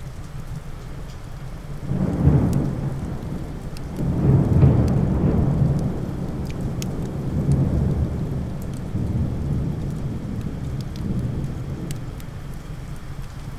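Steady rain with a roll of thunder that rumbles in about two seconds in, swells around four seconds and slowly dies away. Light sharp ticks are scattered through it.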